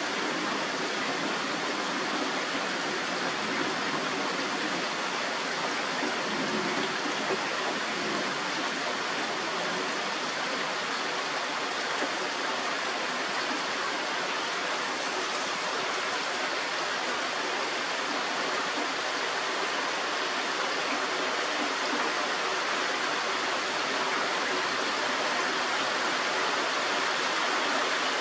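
Heavy rain falling steadily during a thunderstorm, an even hiss with no thunder heard.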